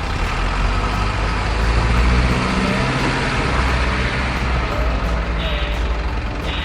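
Remote-control truck running with a diesel truck engine sound, swelling about two seconds in, with short hisses near the end.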